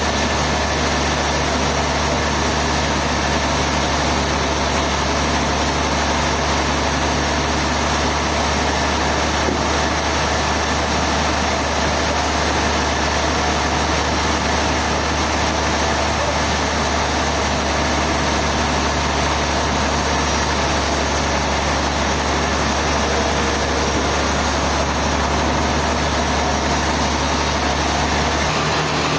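Sawmill machinery running steadily: a constant low engine hum under a wide, even mechanical noise, with the low hum dropping away near the end.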